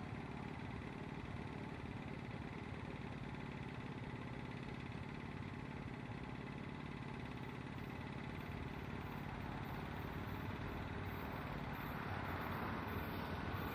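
Steady low rumble of an approaching train, growing louder near the end. From about halfway a faint high ticking about twice a second joins in.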